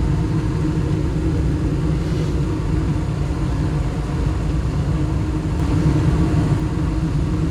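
Gas furnace running steadily on heat: a low, even drone of the burners and fans, with the manifold gas pressure set to about 3.5 inches of water column.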